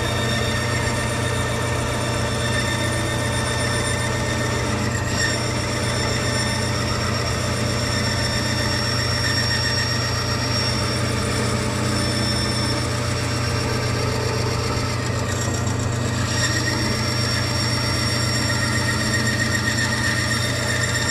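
Bandsaw running steadily, rough-cutting a wooden guitar body blank: a constant motor hum with a high blade whine.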